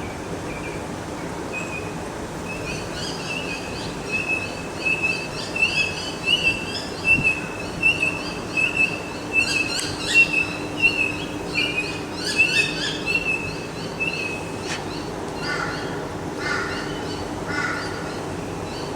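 A bird calling in a long run of rapid, high chirps, several a second, louder in the middle, then three shorter, lower calls near the end, over steady wind noise.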